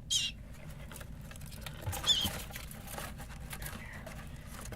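Baby bird cheeping: two short, high, wavering squeaks, one right at the start and a louder one about two seconds in, with faint light tapping and scratching between them.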